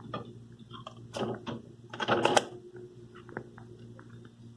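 Food containers being handled and shifted on refrigerator shelves: a few sharp clicks and rustles, the loudest about one and two seconds in, then lighter ticks, over a low steady hum.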